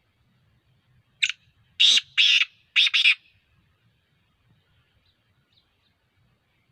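Black francolin calling: one harsh phrase of four loud notes, a short first note followed by three longer ones, starting a little over a second in.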